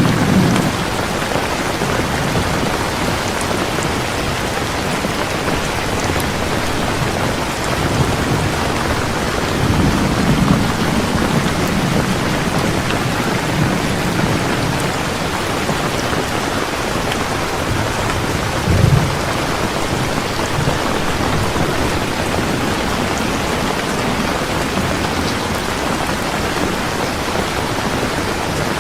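Steady rain falling, a constant hiss. Low rumbles swell under it a few times, and there is a short, louder low thump about two-thirds of the way through.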